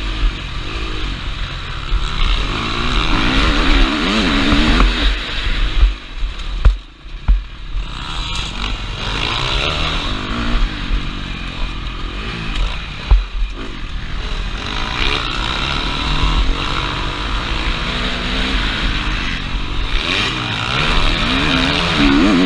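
KTM 350 SX-F single-cylinder four-stroke motocross engine revving up and down repeatedly as the rider works the throttle, with wind buffeting the microphone. The engine drops off briefly about seven seconds in, then picks up again.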